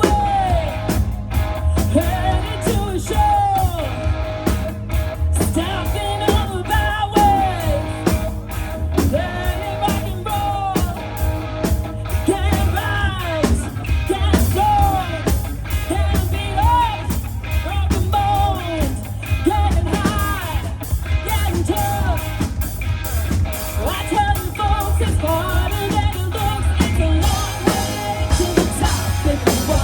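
Live rock band playing: drums, bass and guitar, with a bagpipe melody over a steady drone.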